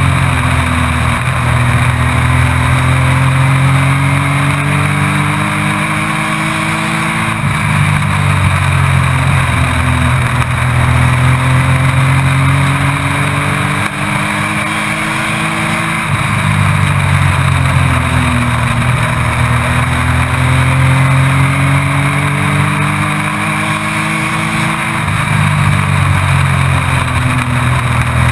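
Race truck engine heard from inside the cab under racing load: the pitch climbs for several seconds as the truck accelerates, then drops sharply as the throttle lifts, three times over, in step with the straights and turns of a short oval.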